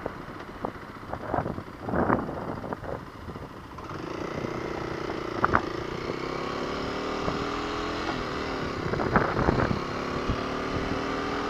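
Kawasaki KLX250's single-cylinder engine pulling under acceleration, its note rising slowly and then holding steady. Irregular thumps come through for the first few seconds.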